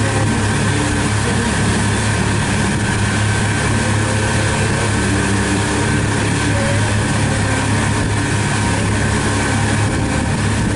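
Pontoon boat's outboard motor running steadily underway, a constant low hum under an even rush of wind and water noise.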